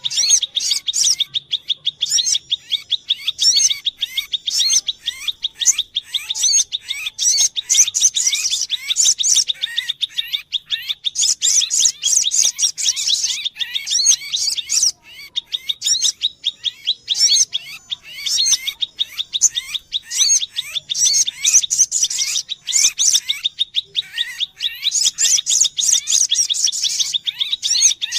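Rapid, high-pitched bird chirping and trilling that runs on almost without a break, with short lulls about ten and fifteen seconds in. These are sogok ontong (little spiderhunter) calls, the sound used to lure the bird.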